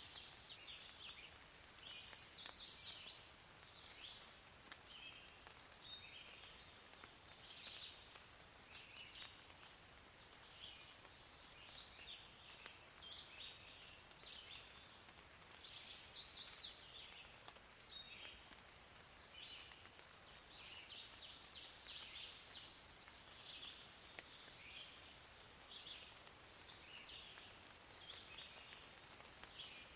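Birds chirping and calling over a faint steady hiss, with two louder rapid trills, one about two seconds in and one about halfway through.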